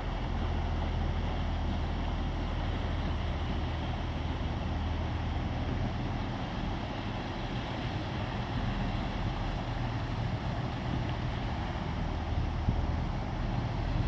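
Fishing boat engine running with a steady low drone, under a steady rushing noise.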